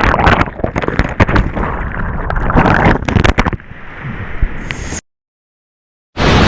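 Whitewater splashing with many sharp knocks and bumps through the first half, easing to a quieter rush of water. It then drops out to dead silence for about a second before a loud, steady rush of noise comes back near the end.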